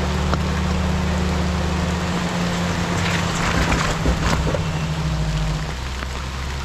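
An off-road vehicle's engine running at low revs over a steady hiss, its note changing about two seconds in and again near the end, with a rougher, noisier stretch in the middle.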